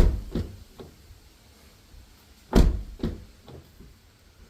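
A 2024 GR Corolla's door being swung and shut: two heavy thumps about two and a half seconds apart, each followed by a few lighter knocks. The hinges and door check have just been greased and are being tried.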